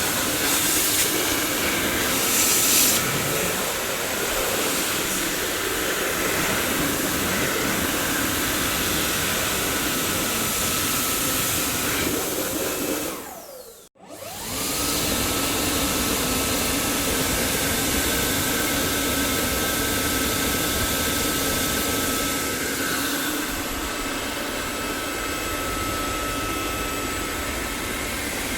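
Dyson vacuum cleaner running, a steady rush of air with a high motor whine. About halfway through, the motor winds down and cuts out for a moment, then spins straight back up to full speed.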